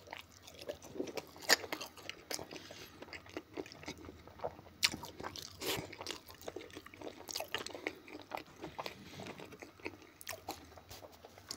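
A person chewing a forkful of fried potato close to the microphone, with many irregular short, sharp crunches and clicks.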